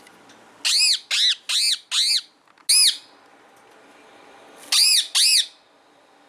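A bird giving loud, harsh squawking calls: four in quick succession, a single call, then two more near the end.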